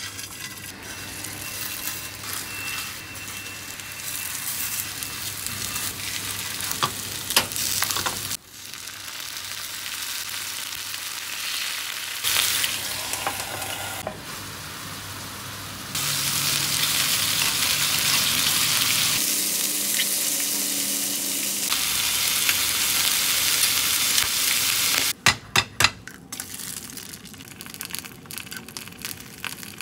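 Food sizzling as it fries in a pan, in several short takes that change abruptly in level; a few sharp clicks near the end.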